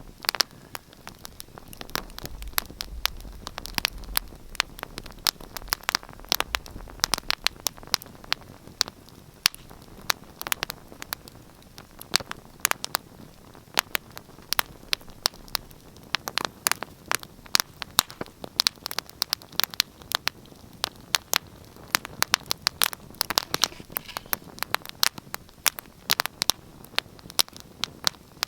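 Wood fire burning in a fireplace, crackling and popping in dense irregular snaps over a soft steady hiss, with a faint low rumble a few seconds in.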